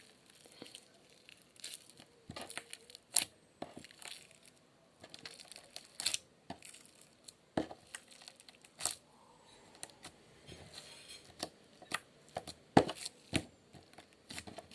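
Hands working wet slime and its plastic container: irregular sharp clicks and crinkly crackles, a dozen or so louder ones spread out with quieter rustling between.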